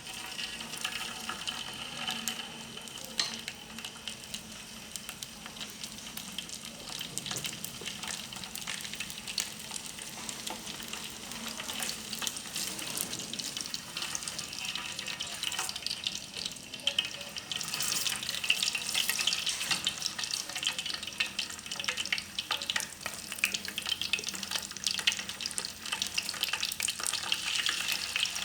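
Small freshwater fish frying in hot oil in a pan: a steady sizzle full of fine spitting crackles, getting louder about two-thirds of the way through.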